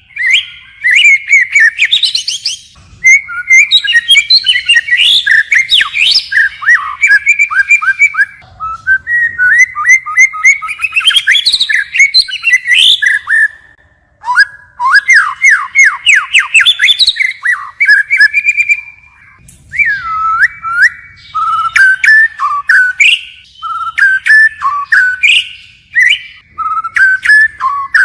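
White-rumped shama singing, its song constantly changing: bursts of varied whistled phrases with rapid trills and quick up-and-down sweeping notes, broken by short pauses every few seconds.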